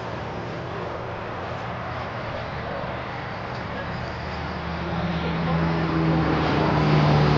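A car engine running steadily with a low, even hum, getting louder about five seconds in.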